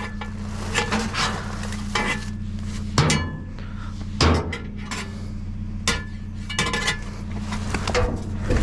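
Scrap metal clanking and knocking as it is handled and pulled about in a dumpster, about seven separate knocks, over a steady low hum.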